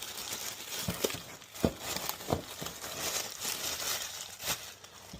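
Plastic wrapping crinkling and rustling as a new engine air filter is handled, with several light taps and knocks.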